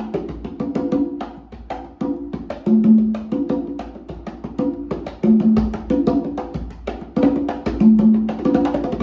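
CMC Prelude conga played by hand in a steady rhythm: quick, sharp slaps and open tones several times a second, with a low, ringing open tone repeating about every second and a half.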